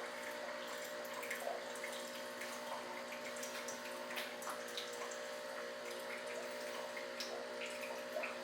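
Nespresso coffee machine running its first cleaning cycle: the pump hums steadily while water trickles and drips out of the spout.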